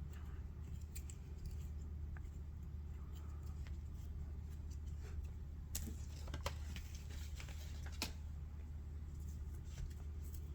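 Light scattered clicks and snips of fly-tying tools and thread being worked at the vise, busiest in the middle of the stretch, over a steady low hum.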